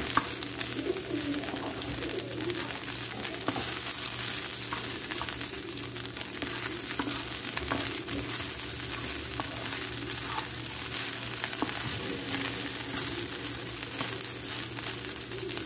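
Fried rice sizzling in a wok while a wooden spatula stirs and turns it: a steady frying hiss with many small scraping clicks.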